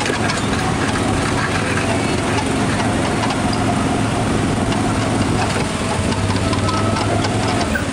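Autopia ride car's small gasoline engine running steadily as the car drives along, a constant low hum under a rushing noise.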